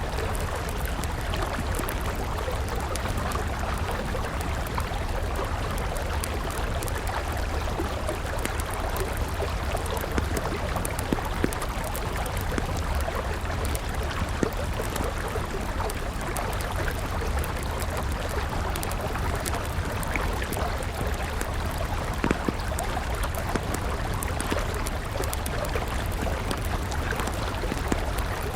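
River water flowing steadily, with a wood campfire crackling over it in many small, sharp pops.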